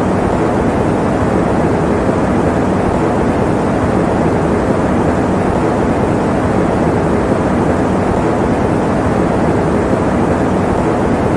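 Electric fan running steadily: an even, low, muffled rushing noise with no changes in pitch or level.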